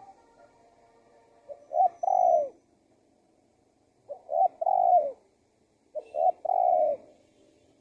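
Male spotted dove cooing: three calls about two seconds apart, each two short notes followed by a longer coo that falls in pitch.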